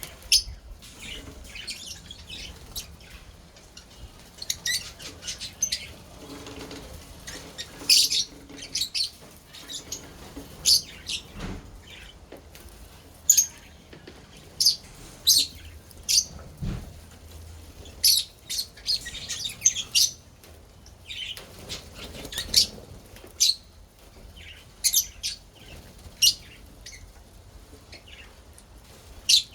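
Lovebirds giving short, sharp, high-pitched chirps, one after another at irregular intervals.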